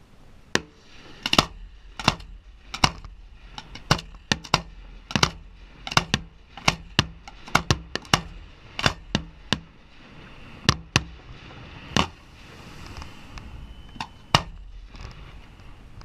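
Fireworks shells going off: a quick, irregular run of sharp bangs, thinning out after about ten seconds, with a brief hiss of crackle near the end.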